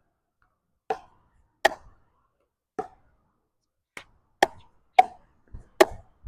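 Pickleball rally: about eight sharp pops of paddles striking the ball and the ball bouncing on the court, irregularly spaced.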